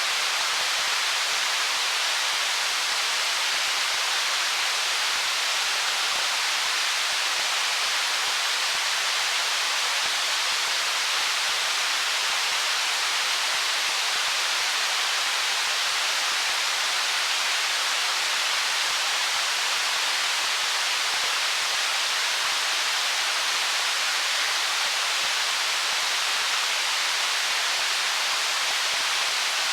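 Stream water running over stones: a steady, bright, hissy rush with little low rumble and no changes.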